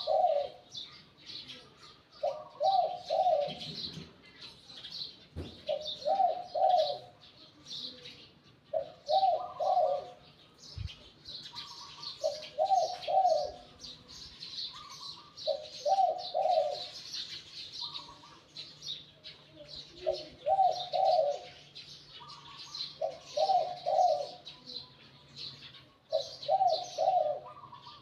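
Spotted dove cooing, a short rolling phrase repeated about every three seconds. Steady high twittering of small birds goes on underneath.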